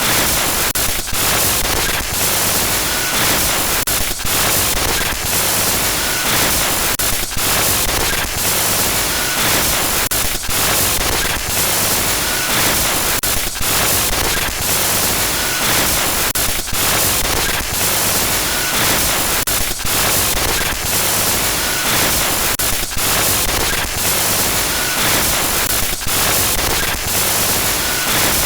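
Glitch noise sound effect: dense, loud static hiss that stutters, cutting out briefly every half second to a second.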